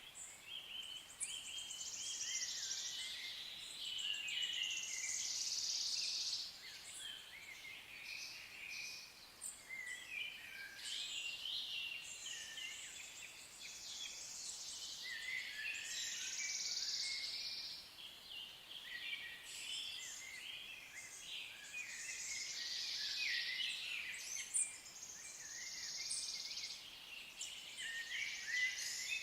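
Several songbirds singing at once: a continuous chorus of overlapping high chirps, trills and short whistled phrases that swells and eases every few seconds.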